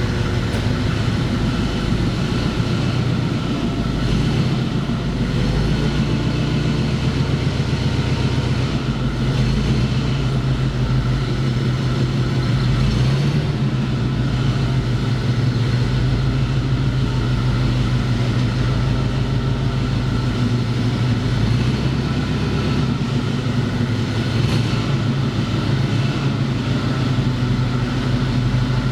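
A machine running steadily with a low drone.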